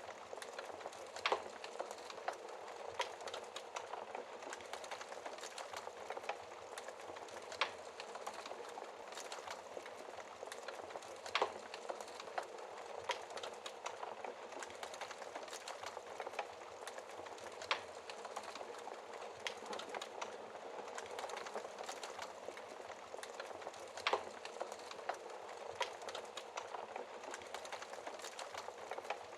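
Wood fire crackling in a fireplace: a steady hiss of burning logs with small crackles every second or two and a handful of louder sharp pops every few seconds.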